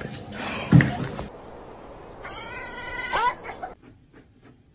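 A thump and rustling near the start, then a cat giving one drawn-out meow that bends in pitch, about two and a half seconds in.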